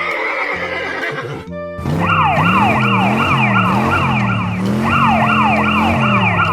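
Emergency siren with rapid, repeating pitch sweeps over cartoon background music. It starts about two seconds in, breaks off briefly midway and resumes. Before it comes a short noisy rush.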